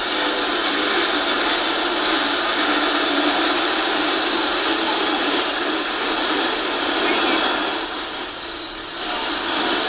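Norfolk Southern freight train's hopper cars rolling past, a steady noise of steel wheels on rail that dips briefly near the end.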